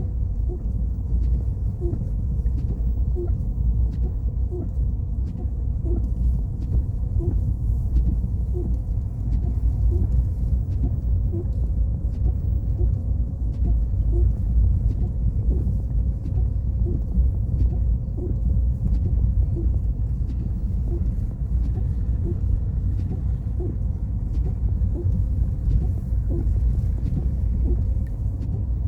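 Car driving on a snowy mountain road: a steady low rumble of engine and tyres, with a faint tick repeating about every two-thirds of a second.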